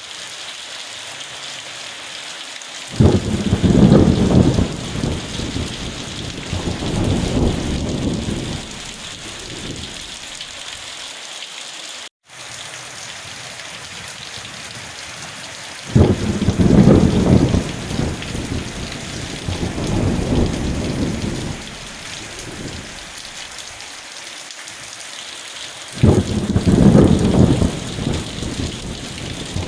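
Steady rain hissing, with thunder rumbling three times: about three seconds in, again about sixteen seconds in, and once more near the end. The sound cuts out completely for an instant about twelve seconds in.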